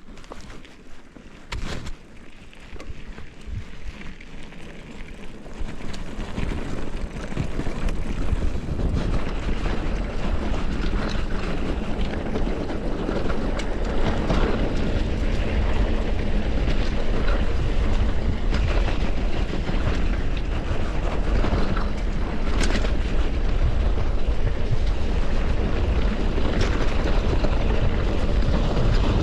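Wind rushing over the microphone with tyre and trail noise from a mountain bike ride, building over the first eight seconds or so and then steady. A short knock about two seconds in.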